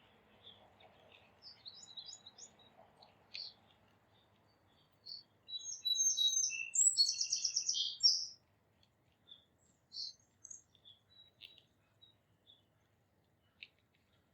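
Wild songbirds chirping, with one bird singing a loud, quick trilling song from about five to eight seconds in.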